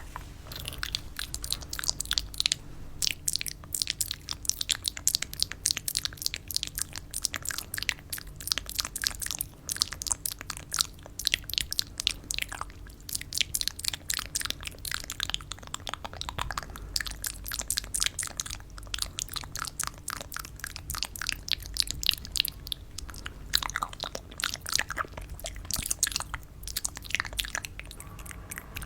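Close-miked crunching and crackling from candy: a dense, continuous run of small crisp clicks and crinkles.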